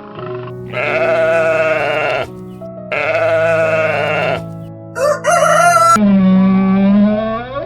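Farm animal bleating: two long wavering calls, a short cry, then a third long call that rises and falls in pitch, over background music with steady held notes.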